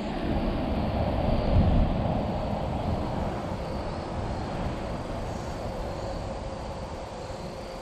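A passing motor vehicle's engine and road rumble, swelling to its loudest about a second and a half in, then slowly fading away.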